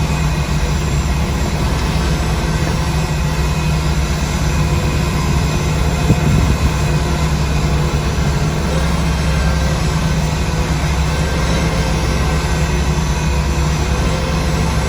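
Heavy engine of dredging machinery running steadily at constant speed, a low drone.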